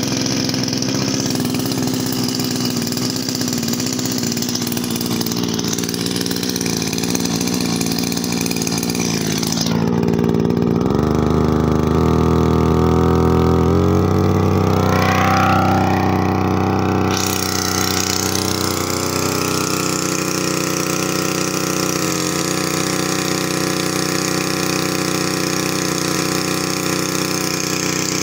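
Small 42.7 cc two-stroke petrol engine of a portable power sprayer running steadily just after starting. About ten seconds in its note shifts and grows a little louder for several seconds, with a rising whine, then settles back to a steady run.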